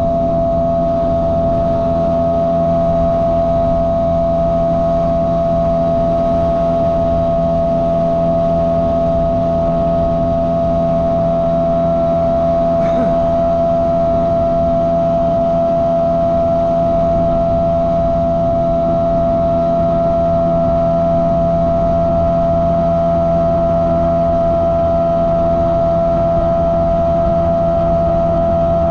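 Boat motor running at a constant speed, a steady humming drone with a few fixed tones over low rumble.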